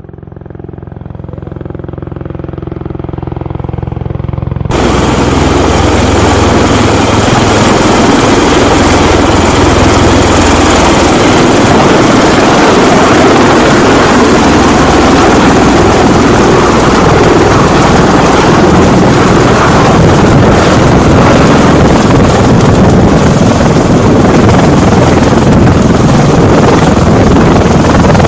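A low engine rumble fades in, then about five seconds in a much louder, dense mechanical noise starts abruptly and runs on steadily.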